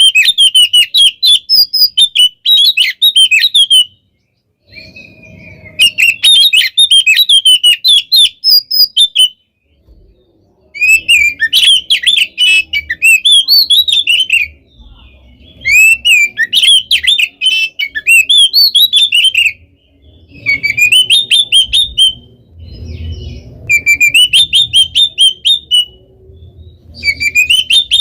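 Oriental magpie-robin (kacer) singing loudly in dense bouts of rapid, varied notes, each a few seconds long, with short pauses of about a second between them. This is the nonstop 'gacor' song of a bird in top singing form.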